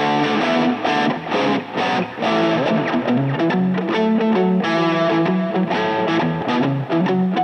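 Electric guitar played through a Nux MG-300 multi-effects processor on a distorted tone, strumming and holding chords that change every second or so, with a few short breaks between chords in the first couple of seconds.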